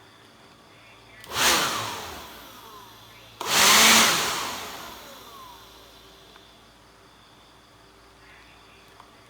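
Electric blower switched on in two short bursts, each time running up fast and then spinning down as it coasts to a stop. The second burst starts more abruptly and runs a little longer and louder.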